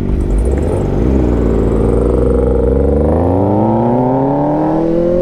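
A vehicle engine pulling away and accelerating. Its pitch dips briefly about a second in, then rises steadily from about halfway through.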